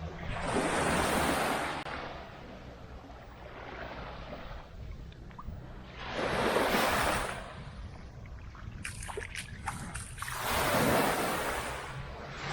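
Small waves breaking and washing up the beach, three swells about every four to five seconds, with wind rumbling on the microphone. A few light clicks come between the second and third waves.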